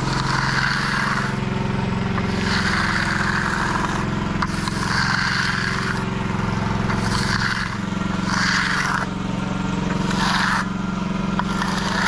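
Repeated scraping strokes of a stiff broom dragged across freshly finished concrete, one every second and a half or so, over a small engine running steadily.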